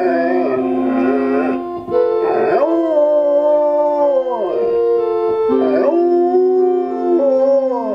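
A dog howling along to a hymn played in held chords: two long howls, each sliding up, holding a note and then drooping down in pitch, over the steady chords.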